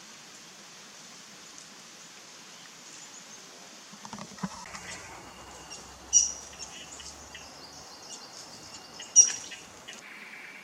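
Wild birds calling over a steady high background hiss: scattered short chirps start about four seconds in, with two sharp, much louder calls, one about six seconds in and one about nine.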